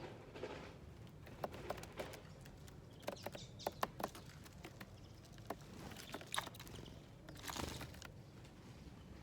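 Small birds feeding at a seed dish: scattered light clicks and taps of beaks pecking at seeds and nuts, with a short rustle of wings or feet about seven and a half seconds in.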